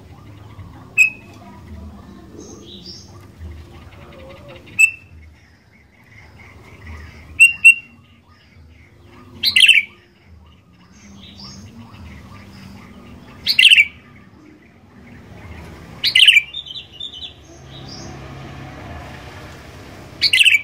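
Sooty-headed bulbul (kutilang) calling: short, loud, clear phrases repeated every few seconds, about eight in all.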